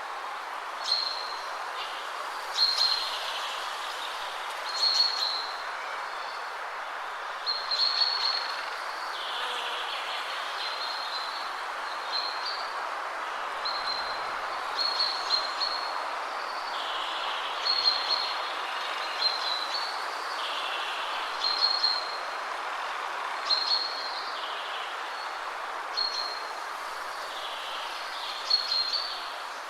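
Steady rush of wind through trees, with a songbird giving short high calls about every one to two seconds.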